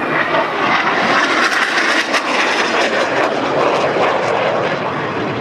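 Jet noise of Northrop F-5E Tiger II fighters flying past, their twin General Electric J85 turbojets making a loud rushing sound with crackle in the middle, easing slightly near the end.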